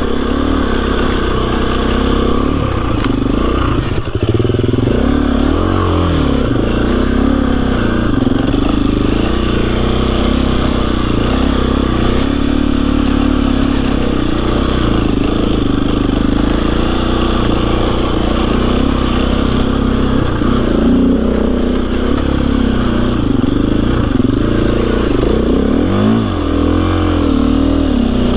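KTM EXC-F 350 dirt bike's single-cylinder four-stroke engine running under way, its pitch rising and falling with the throttle, most clearly around 5 seconds in and again near the end.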